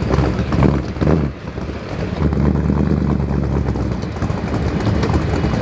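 Aluminum-head Ford 427 side-oiler V8 with dual four-barrel carburetors running in a Shelby Cobra, with two short surges of throttle in the first second and a half, then settling into a steady, lumpy idle.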